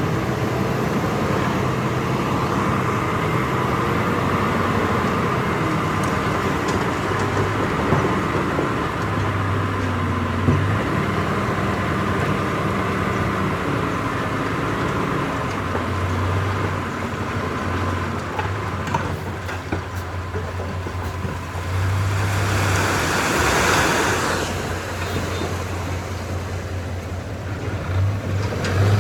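Heavy diesel earthmoving machinery, a bulldozer and dump truck, running steadily with a low engine drone that swells and eases. A louder rushing hiss about three-quarters of the way through.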